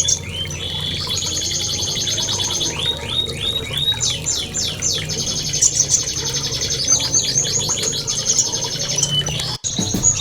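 A songbird singing: series of quick downward-sweeping whistles alternating with fast high trills, over a steady low hum. The song breaks off abruptly for a moment near the end.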